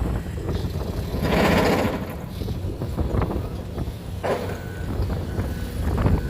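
Heavy construction machinery running with a dense low rumble, with a loud hissing burst about a second and a half in and shorter bursts near the end.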